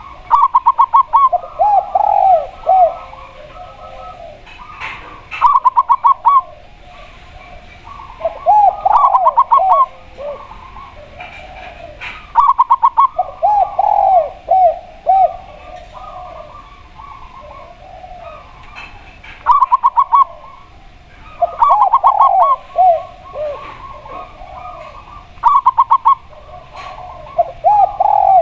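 Caged spotted dove and zebra dove cooing against each other in repeated phrases every few seconds. Each phrase mixes a quick series of short, higher notes with lower, arched coos.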